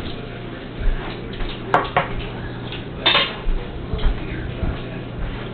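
Cutlery and dishes clinking during a meal: about half a dozen sharp, irregular clinks and knocks, over a low steady hum.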